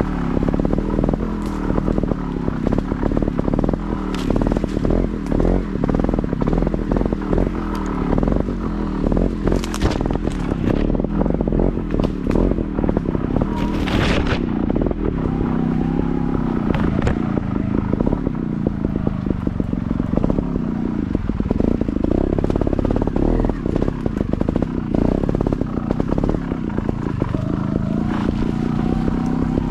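Motorcycle engine running as it is ridden slowly off-road, the revs rising and falling again and again, with scattered clattering knocks, the loudest about ten and fourteen seconds in.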